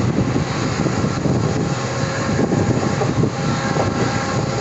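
Passenger train running on the line: a steady, loud rumble and rattle of coach wheels on the rails.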